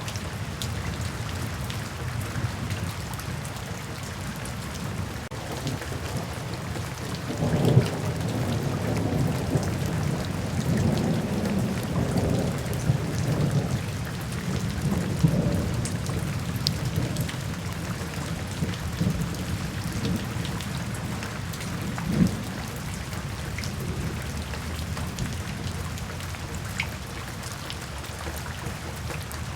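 Steady rain falling, with a roll of thunder rumbling in about a quarter of the way through and dying away just past halfway. A shorter low thump of thunder comes about three quarters of the way in.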